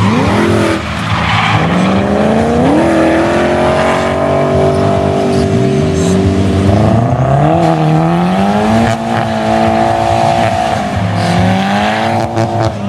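Drift car's engine revving hard: its pitch climbs and holds, drops and climbs again several times, over the squeal of tyres sliding.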